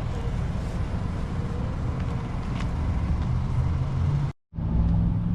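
Car engine idling with a steady low rumble. The sound cuts out completely for a split second about four seconds in.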